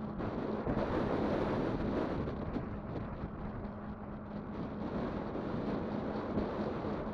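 Wind rushing over the microphone and the rumble of an e-bike's tyres rolling along, with a steady low hum underneath; a bit louder about a second in.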